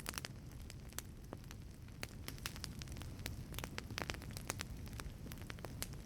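Wood fire burning in a wood-fired pizza oven: a steady low rumble of flames with frequent irregular sharp crackles and pops from the burning wood.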